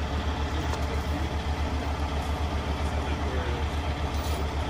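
Heavy crane tow truck's diesel engine idling: a steady low throb of about six or seven pulses a second.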